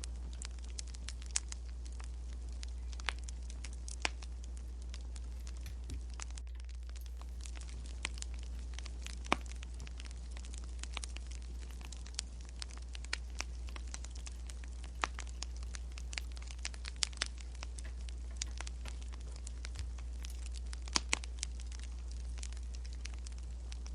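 Wood fire crackling, with sharp irregular pops and snaps every second or so over a steady low hum.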